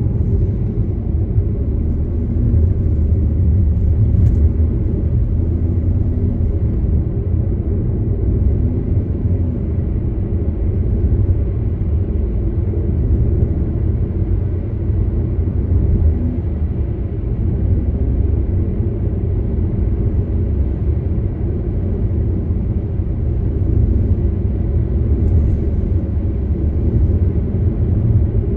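Steady low rumble of a car being driven at an even pace: engine and tyre-on-road noise with no sharp events.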